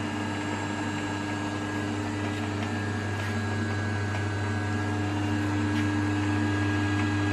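Colchester Student lathe running in low gear on its main motor: a steady hum and whir from the motor, belts and headstock gearing, growing slightly louder.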